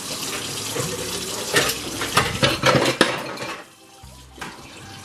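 Tap water running into a kitchen sink while dishes are splashed and knocked together in it, with several sharp clatters about halfway through.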